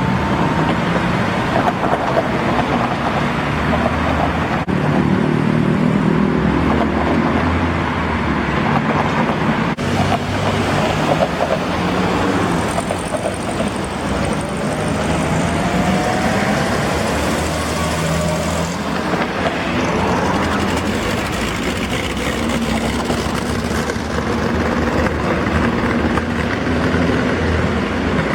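Classic car engines running as the cars drive past at low speed. The engine note shifts from car to car, and one revs up about halfway through.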